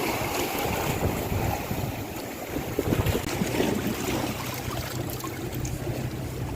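Wind buffeting the microphone over the wash of surf, with a steady low engine hum coming in about halfway through.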